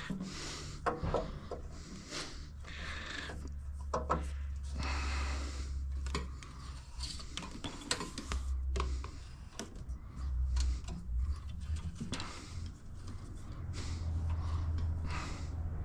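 Workshop handling noise: irregular scraping, rubbing and light knocks of metal parts and tools being moved and fitted.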